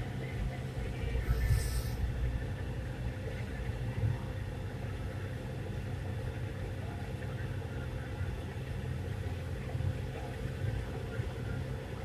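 Steady low rumble of a car's engine and road noise, as heard from inside the car while driving, with a brief hiss about a second and a half in.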